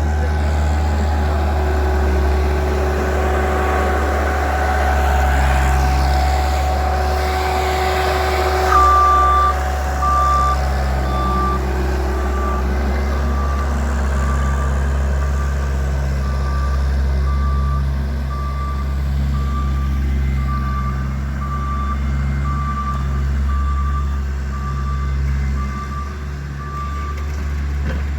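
A Bobcat's engine running steadily under work, with its reversing alarm beeping about once a second from about a third of the way in until near the end.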